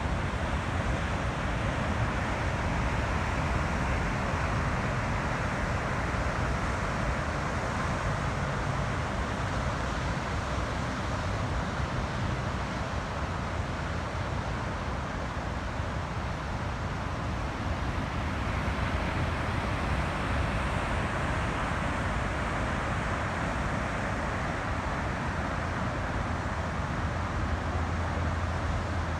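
Steady road and engine noise of a moving vehicle, heard from inside: an even low rumble with a broad rushing hiss over it.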